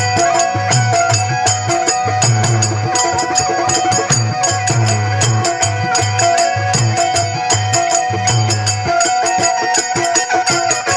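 Instrumental passage of a Rajasthani folk bhajan: sustained melody notes over a fast, even beat of jingling percussion and deep drum strokes.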